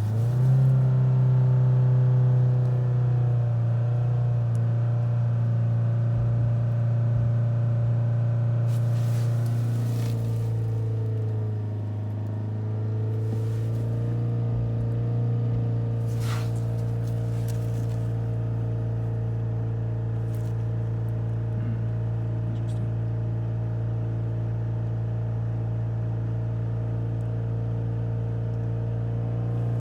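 Ford S-Max 2.0 TDCi four-cylinder diesel engine held at raised revs, a steady drone that dips briefly about ten seconds in and then holds steady. It is being revved to get DPF cleaner additive working in a blocked diesel particulate filter.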